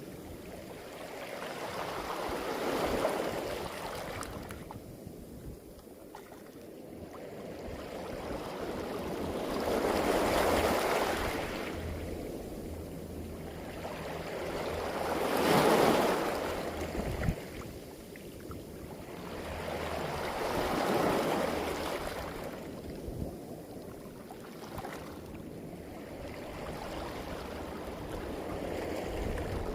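Sea waves surging up a beach of smooth, round pebbles and drawing back, the water rushing and the stones rattling, in swells that rise and fall about every five to six seconds.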